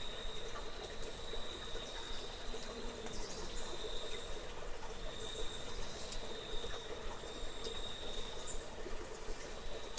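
Night-time nature ambience of insects, with a steady high cricket-like trill that breaks off briefly a few times, over a constant lower drone and scattered faint ticks.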